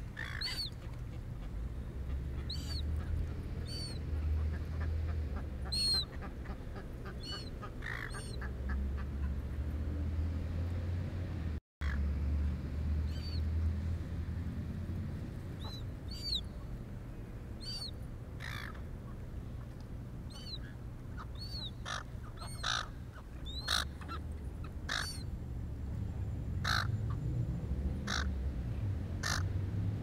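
A bird calling over and over: short, high notes that rise and fall, a second or more apart. In the second half they are joined by louder, rougher calls.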